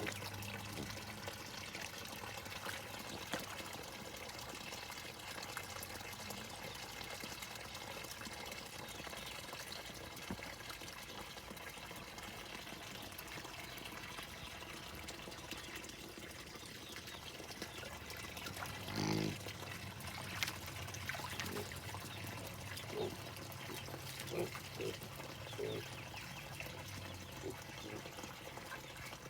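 Farm animals at feeding time, over a steady hiss. One short pitched animal call comes about two-thirds of the way through, followed by a series of short, low grunt-like sounds.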